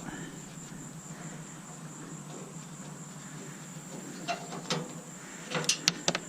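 Scattered clicks and clinks of hand tools and metal parts while a stainless steel coffee maker is taken apart, with a quick cluster of sharper clicks near the end. A steady high-pitched tone and a low hum run underneath.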